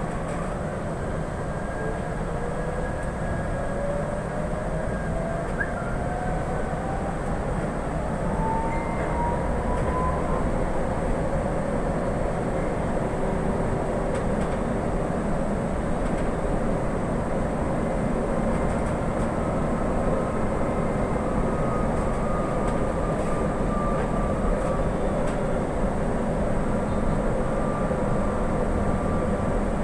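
Interior of a Manila MRT-3 light-rail train car in motion: a steady low rumble, with a motor whine that climbs in pitch over the first ten seconds or so as the train picks up speed.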